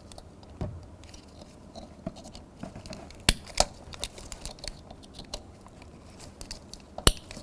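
Quiet plastic handling sounds from a car door's wiring harness connectors and door panel being worked by hand, with scattered small clicks and two sharper clicks, about three seconds in and near the end.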